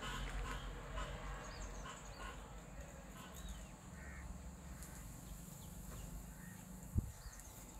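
Birds calling in short scattered calls over a low steady background rumble, with a single sharp knock about a second before the end.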